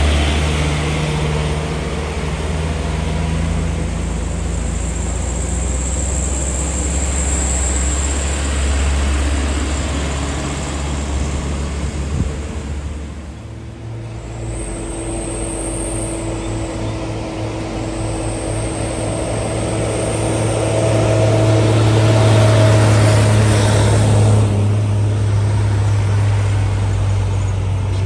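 Heavy diesel trucks going by one after another. One truck's deep engine drone fades out about halfway through, then a second truck's engine comes up, with a high whine over it, and passes.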